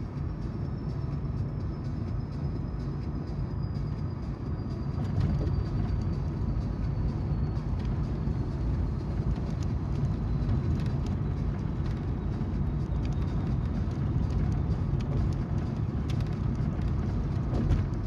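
Car cabin road noise: tyres rolling on the road and the engine's hum, a steady low rumble that grows a little louder about five seconds in. A faint high whine slides slowly down in pitch over the first half.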